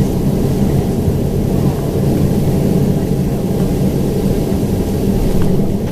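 Boeing 767-400ER's General Electric CF6-80C2 jet engines and airframe heard from inside the passenger cabin: a steady loud rumble with a low hum, no rises or drops in pitch.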